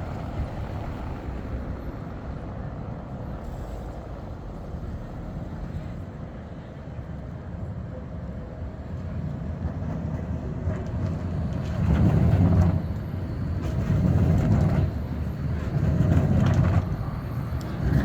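Škoda 52T ForCity tram running in city street traffic: a steady low rumble that builds in the second half in several louder swells.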